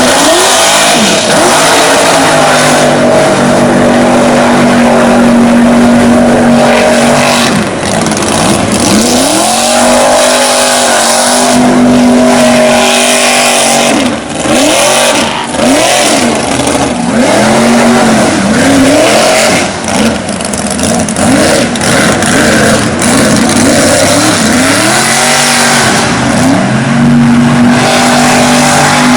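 Toyota mega mud truck's engine running hard at high revs with the throttle held down. It holds a steady high pitch for several seconds at a time, then revs up and down over and over as the truck goes through the mud holes.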